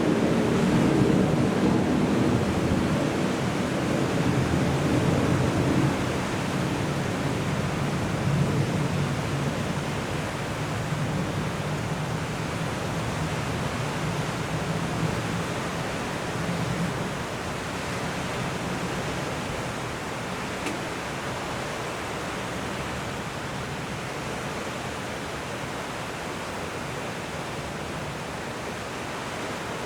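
Steady rushing noise of wind and water, with a low boat-engine hum that fades out over the first fifteen seconds or so.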